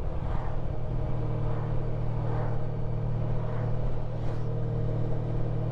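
Honda ST1300 Pan European's V4 engine running steadily under way, a constant hum with road noise, its note filling out about a second in.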